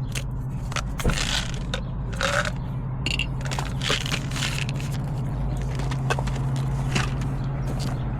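Plastic supplement bottles and a pill container being handled: scattered clicks, rattles and scrapes as pills are sorted out, over a steady low hum.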